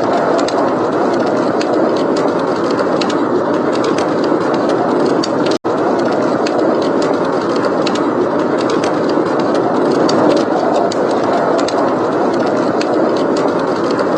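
Steady roar of blizzard wind with frequent small pops and crackles from a wood fire. The sound cuts out for an instant a little before halfway through.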